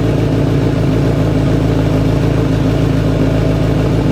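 Kawasaki Z1000's inline-four engine idling steadily through a full aftermarket exhaust with a bomb-style muffler, at about 95 decibels.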